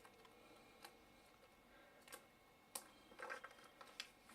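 Near silence with a few faint clicks and a soft rustle, from plastic packaging and a plug lead being handled.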